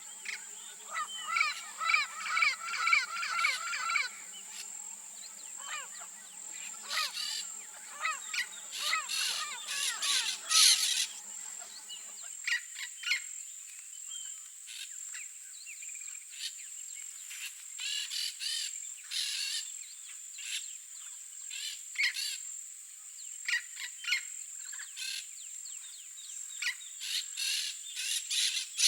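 Yellow-faced parrots calling in the wild: many short calls, in a thick run over the first few seconds and again around ten seconds in, then scattered calls throughout, over a steady high-pitched buzz.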